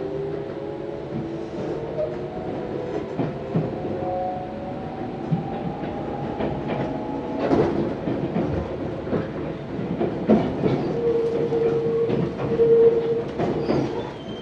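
Tobu 634-series electric train running, heard from inside the car: a motor whine rises in pitch as the train picks up speed over the first several seconds, with wheels clicking over rail joints throughout and a steady hum near the end.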